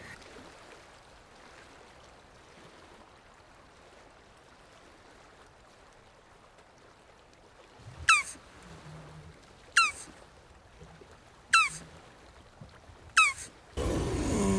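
Jabuti tortoise calling: after a stretch of faint background, four short, sharp calls, each falling in pitch, come about every second and a half to two seconds. A louder, wavering call starts just before the end.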